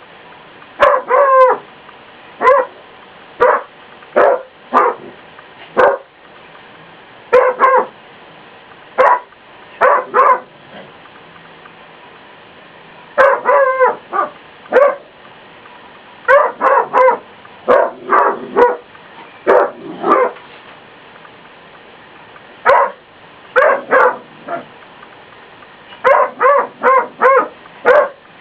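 A dog barking in short, sharp barks, singly and in quick runs of two to five, with pauses of a second or more between runs, at a mop standing in a corner.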